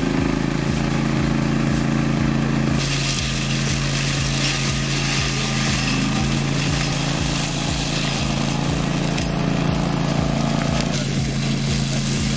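Remote-controlled mower running steadily at a constant pitch, with a regular low pulsing underneath. About three seconds in, a loud hiss joins it, the sound of it cutting through tall grass.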